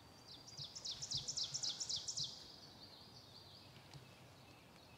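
A songbird singing a quick series of high, downward-slurred notes, about seven a second, for about two seconds, then trailing off softly.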